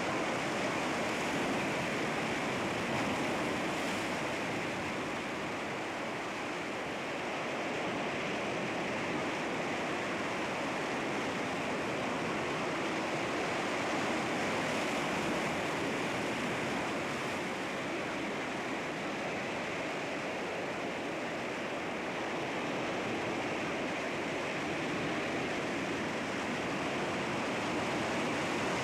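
Sea waves breaking on rocks: a continuous rush of surf that swells and eases slowly.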